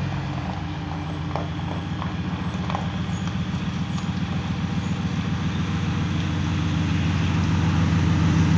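An engine running steadily with a fast, even low pulse, growing gradually louder.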